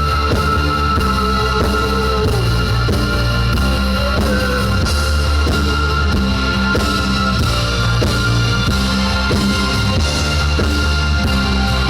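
Live rock band playing loud with electric guitar and drum kit, an instrumental stretch without singing.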